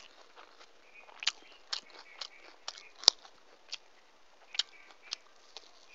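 Close-miked chewing of food: a string of sharp, crisp crunches and wet mouth clicks, about one every half second and irregular, the loudest about three seconds in.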